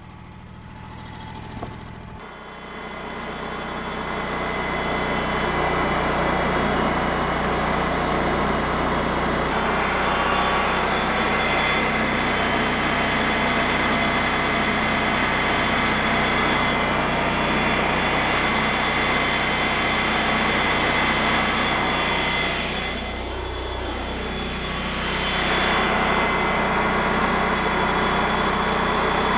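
TimberKing 2000 band sawmill running: the engine spins up over the first few seconds and holds steady while the band blade cuts a slab off a white willow log. About two-thirds of the way through, the engine briefly drops in pitch and level, then rises back up.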